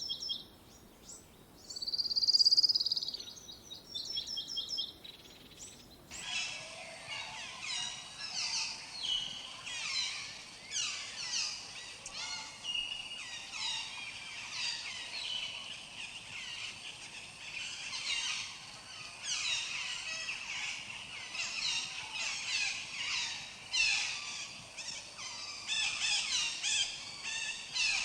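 A few birds calling, with one loud whistled note and short trills, then about six seconds in an abrupt switch to a dense chorus of many birds chirping over one another.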